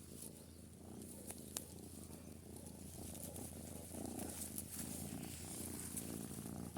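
Domestic cat purring close to the microphone, a soft continuous rumble that grows a little louder about two-thirds of the way through.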